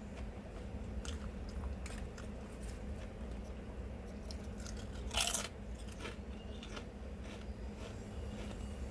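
A person chewing and biting food up close to the microphone, with small wet clicks and a louder crunch about five seconds in, over a steady low hum.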